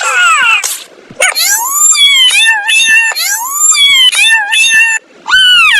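A young pet animal crying over and over in high-pitched whines, about eight cries that each rise and then fall in pitch, with a short break shortly before the end.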